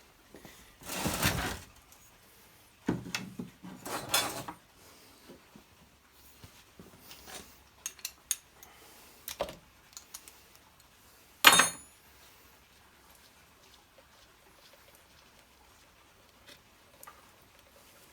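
Hand tools and small metal carburettor parts clinking and rattling as a small engine's carburettor is taken apart, in scattered short bursts with a sharp clack about halfway through.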